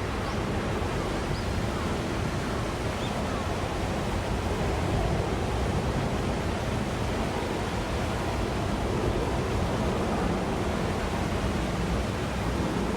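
Small garden waterfall: water falling and splashing in a steady, unbroken rush.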